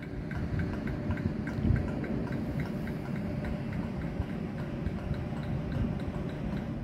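Railway rolling stock in a locomotive depot yard: a steady low rumble with a fast, even ticking of about four or five a second.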